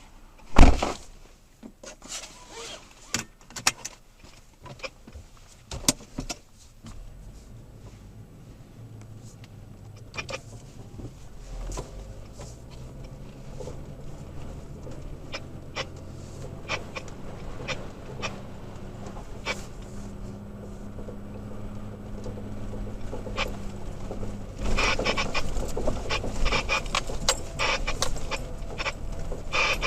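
Inside the cab of a Toyota Tacoma 4x4 crawling a rough off-road trail: scattered clicks and knocks from the cab and suspension, then a steady low engine hum that slowly grows and gets louder and rougher over the last few seconds.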